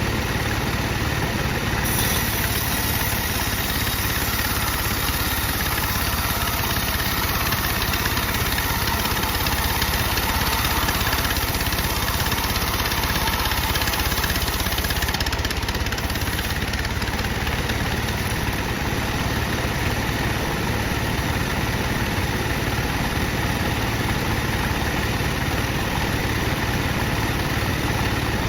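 Sawmill bandsaw machine running with a steady, even mechanical drone.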